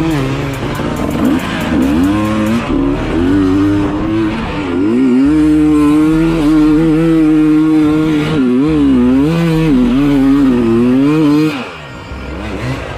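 Dirt bike engine revving up and down, its pitch wavering repeatedly, then dropping away briefly about twelve seconds in.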